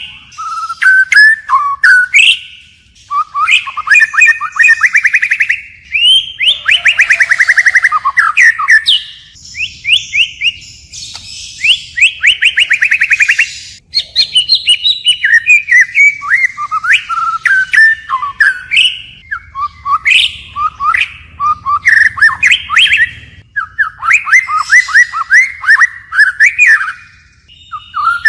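White-rumped shama singing a long, varied song of whistled phrases that keep changing, with rapid trills of repeated notes in the middle.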